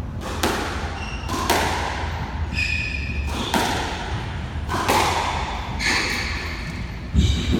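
Squash rally: the ball is struck by rackets and hits the court walls about once a second, with shoes squeaking on the court floor, and one loud hit near the end.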